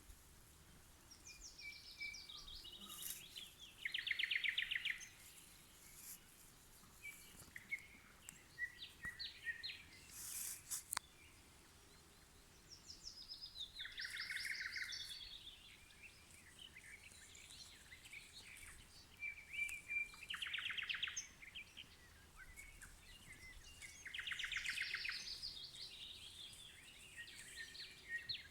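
A nightingale singing in separate phrases with pauses between them, mixing whistled notes with loud, fast rattling trills. A brief sharp click comes near the middle.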